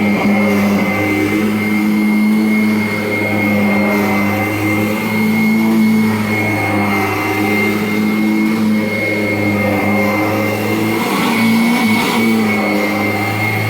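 2017 Kirby Avalir upright vacuum cleaner running steadily, with a constant high-pitched whine over its motor hum; the motor note wavers briefly about eleven seconds in.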